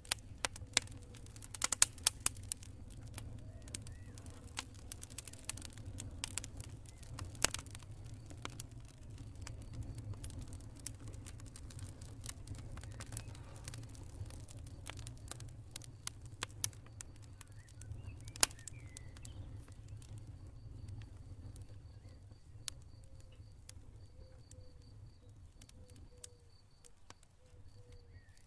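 Campfire burning with irregular sharp crackles and pops over a steady low rumble; the pops are frequent at first and thin out after about eight seconds. In the second half a cricket chirps in a rapid pulsing trill.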